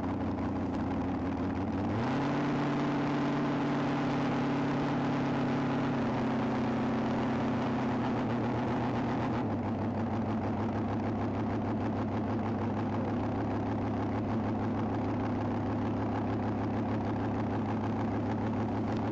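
Nostalgia front-engine dragster's engine idling. Its speed rises about two seconds in, eases back down in two steps, the second near the middle, then holds steady.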